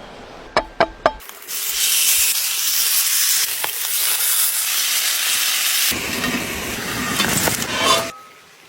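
Three quick clicks, then a salmon steak sizzling loudly in a hot pan. The sizzling starts abruptly, grows fuller about two-thirds of the way through and cuts off sharply near the end.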